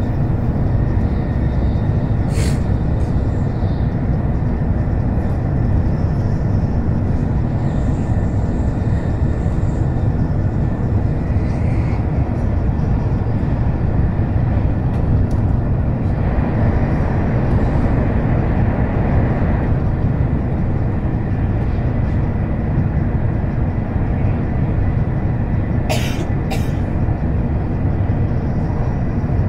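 Steady low rumble of an N700 series Shinkansen running at speed, heard from inside the passenger cabin. A few sharp clicks cut through it, one early and two close together near the end.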